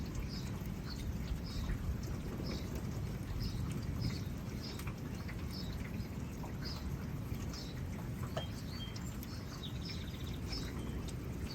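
Steady rumble of wind and rain in a thunderstorm, with a short high chirp repeating a bit more than once a second.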